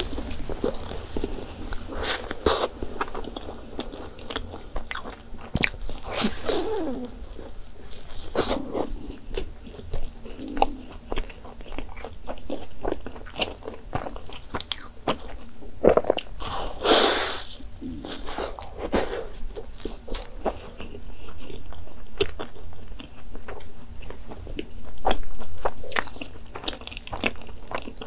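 Close-up biting and chewing of a giant cream-stuffed doughnut, soft bread and thick cream, with many short, irregular wet clicks of the mouth between a few louder bites.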